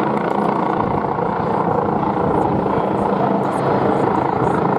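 Westland Wasp HAS1 helicopter flying its display: a steady rotor and turbine noise with a low hum underneath.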